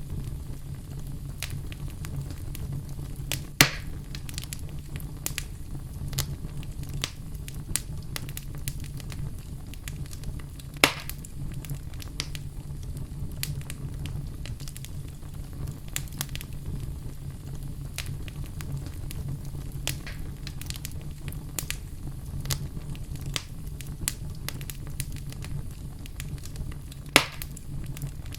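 Fire in a fireplace crackling steadily over a low rumble of flame, with many small ticks. Three louder pops stand out: one a few seconds in, one about halfway and one near the end.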